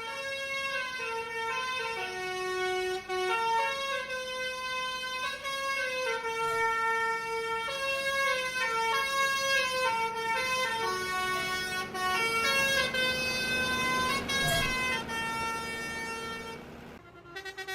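A musical multi-tone vehicle horn of the 'telolet' kind playing a melody of held notes that step up and down, over a steady low hum. It cuts off abruptly near the end.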